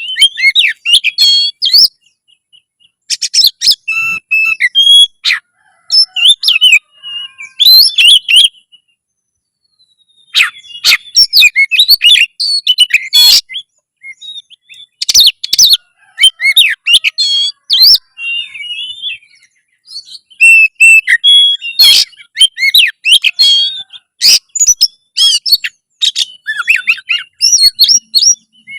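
Oriental magpie-robin (kacer) singing loudly: phrases of rapid, varied whistles and chirps, broken by short pauses, with a longer pause about a third of the way in.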